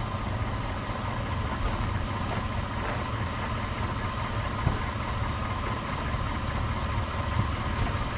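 2012 Ford F-350 pickup engine idling steadily.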